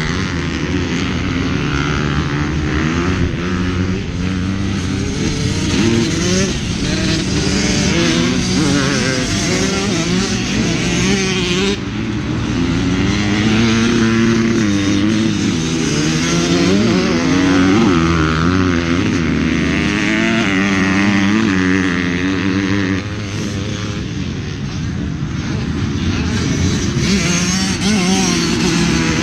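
Yamaha YZ250F four-stroke single-cylinder motocross engine running hard, its revs rising and falling over and over as it is ridden around the track.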